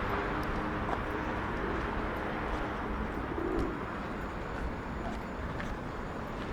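A pigeon coos once, briefly, about three and a half seconds in, over a steady city street hum.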